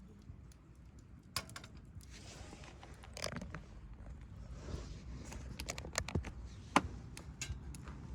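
Scattered clicks, light knocks and short scrapes of small objects being handled, with one sharp click a little before the end.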